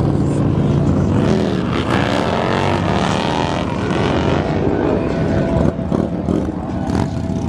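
Vehicle engines revving loudly, the pitch climbing and falling about two seconds in, then a steadier running note in the second half.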